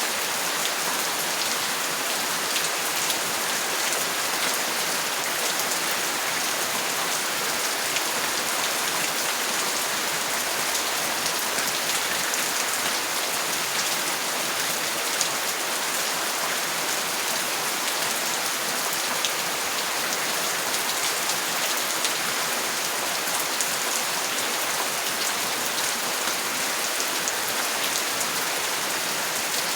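Steady, even rainfall, with many small drops ticking through the constant patter.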